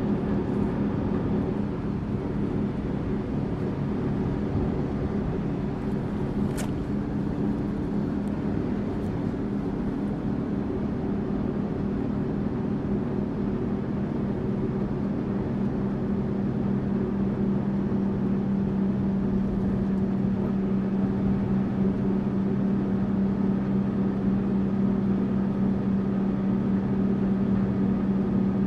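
Tourist bus engine and road noise, a steady hum. There is a single sharp click about six and a half seconds in, and the engine note grows a little stronger in the second half.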